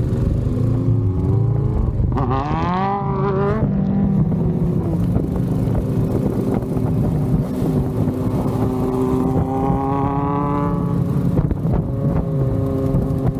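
Motorcycle engine running under way with heavy wind noise, its pitch climbing as it revs up about two seconds in and again from about eight seconds in.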